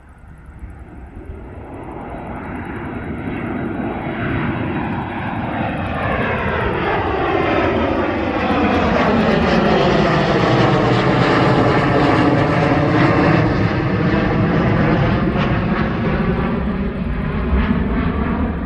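Jet airliner's engines growing steadily louder as it approaches and passes close by, the noise swelling over several seconds and staying loud near the end.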